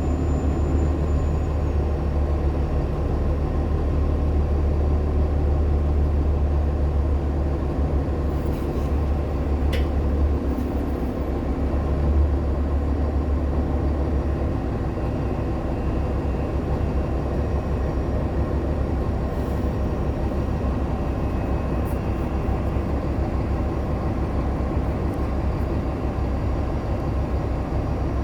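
Inside a moving Nova Bus LFS Artic hybrid bus, with a Cummins ISL9 diesel and Allison H40 EP hybrid drive: a steady low drivetrain and road rumble, with a sharp click about ten seconds in.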